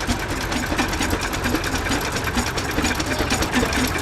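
Antique Avery tractor two-cylinder opposed engines running with a steady, even beat.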